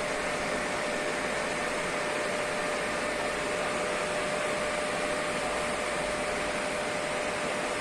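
TIG (argon) welding arc hissing steadily, with a faint steady tone under the hiss.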